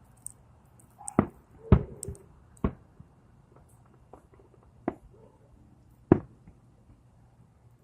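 Fireworks exploding: about five sharp bangs at uneven intervals, with quiet gaps between them.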